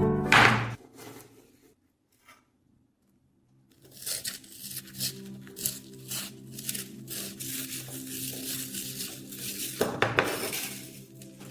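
Piano music fading out, then, after a pause, irregular scraping and rubbing strokes with light metallic clinks as the rusty knife is worked by hand, loudest near the end.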